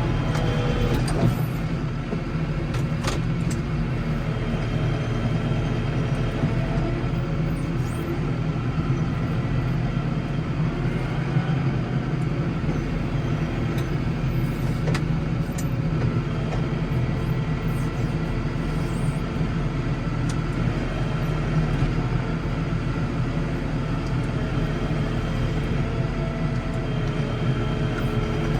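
Case 115U tractor engine running steadily under load, with a few light clicks and rattles over it.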